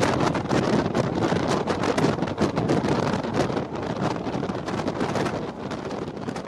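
Wind rushing over the microphone together with the rattling running noise of a moving passenger train, gradually quieter over the last couple of seconds.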